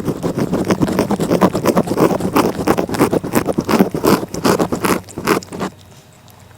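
A cat licking right at the microphone: quick rasping strokes of its tongue, several a second, thinning out and falling quiet near the end.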